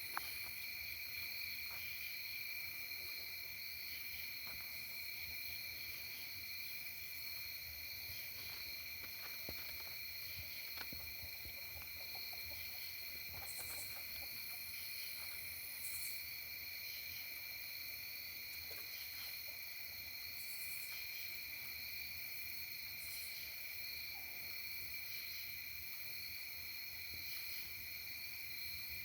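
Insects trilling in a steady, unbroken chorus at one high pitch, with a few short, higher buzzes scattered through it.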